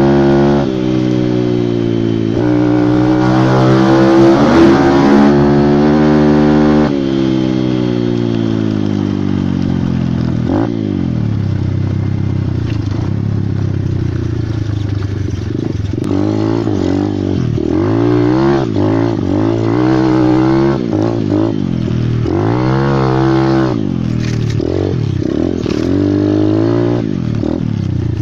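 Pit bike engine revving up and easing off again and again, its pitch climbing and dropping with the throttle. It runs hardest in the first several seconds.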